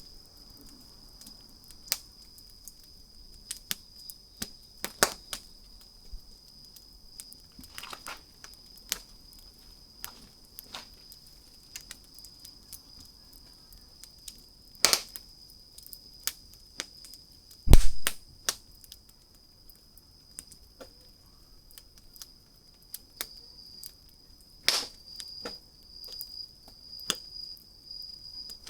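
Wood fire crackling, with sharp pops scattered irregularly, over a steady high-pitched insect trill. One dull low thump comes about two-thirds of the way through.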